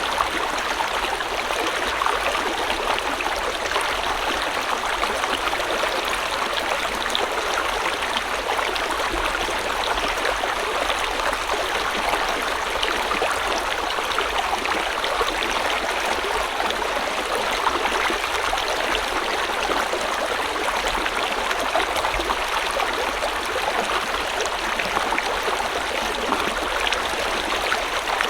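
River water flowing over stones in a steady, continuous rush and babble.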